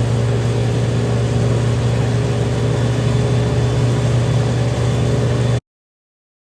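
Speedboat engine running steadily with a strong low hum, then the sound cuts off abruptly near the end.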